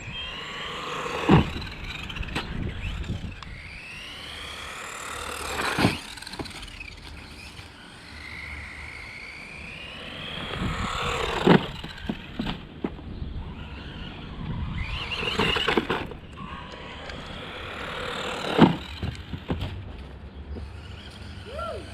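Electric motor of a 1:12 scale RC monster truck whining up and down in pitch as it speeds up and slows again and again, with four sharp knocks spread through as the truck bangs over bumps.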